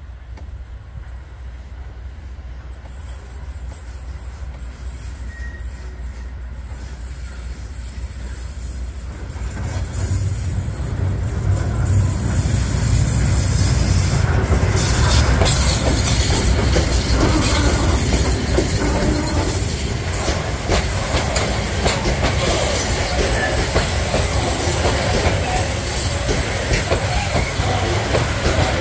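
PKP Cargo ST48 diesel locomotive approaching and growing steadily louder, then passing close by about ten seconds in. A long train of open freight wagons follows, its wheels clacking over the rail joints and the steel girder bridge.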